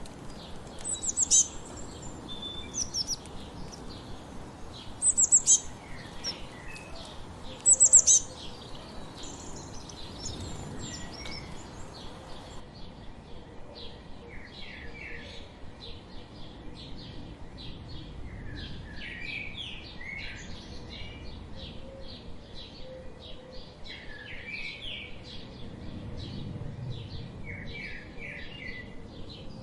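Wild songbirds chirping and singing. Over the first dozen seconds a few loud, sharp high chirps stand out, four times. Then the recording changes abruptly to a busy chorus of rapid, repeated chirps and short trills from several birds.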